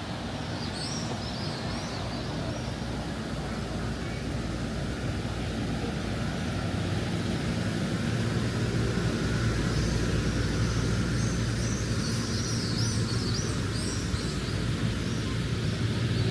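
A steady low engine rumble that grows slowly louder, with light high chirps about a second in and again in the second half.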